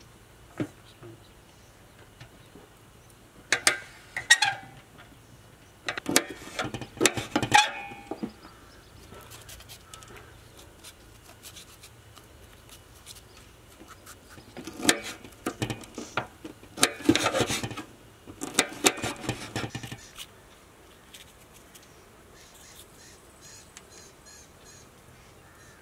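Birds calling in several harsh bursts, with faint, quick high chirps near the end.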